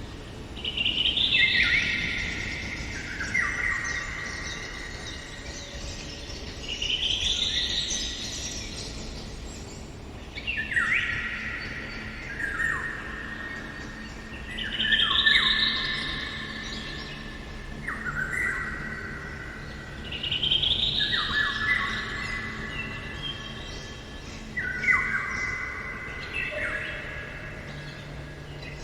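Songbirds singing in a forest, one phrase every four to five seconds: a high, fast trill that drops away in steps into lower whistled notes. The phrases sometimes overlap.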